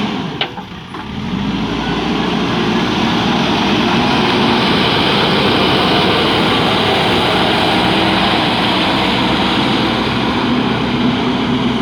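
JCB backhoe loader's diesel engine running steadily, with a brief drop in level and a single click about half a second in.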